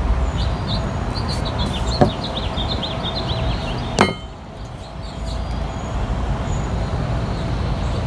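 Outdoor ambience: a steady low rumble with a small bird chirping in a quick series of high notes through the first few seconds. Two sharp knocks cut through, about two and four seconds in.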